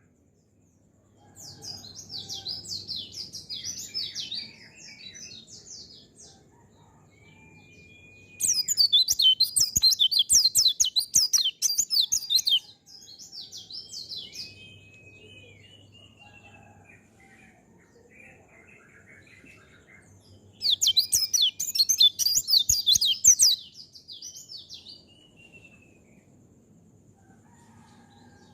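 White-eye (pleci) singing in rapid, chattering runs of high notes. There are two loud bursts of a few seconds each, about a third of the way in and again about two-thirds through, with quieter phrases and short whistled notes between them.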